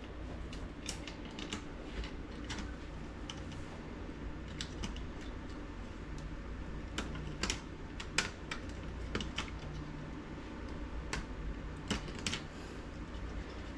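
Irregular light clicks and taps, a few loud ones scattered through, over a steady low hum.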